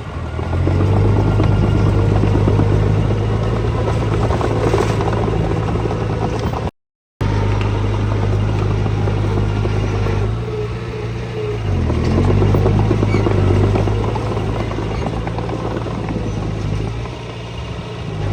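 Heavy machinery diesel engine running steadily, with a brief drop and recovery in engine speed about twelve seconds in. The sound breaks off completely for about half a second around seven seconds in.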